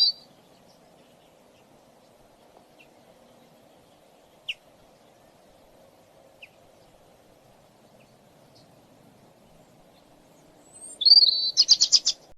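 A small songbird calling: a sharp call at the start, a few faint short chirps, then near the end a loud warbling call followed by a quick run of about six sharp, high notes, over a faint low background hum.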